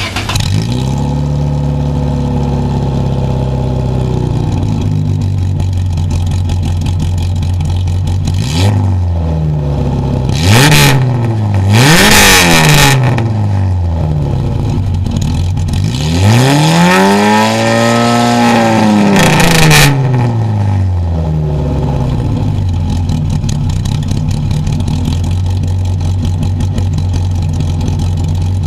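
Peugeot 106 Rallye's 1.6-litre eight-valve four-cylinder engine, heard through its exhaust: it fires up and settles to a steady idle. About eight seconds in it is given two quick blips of the throttle, then a longer rev that rises and falls, before returning to idle.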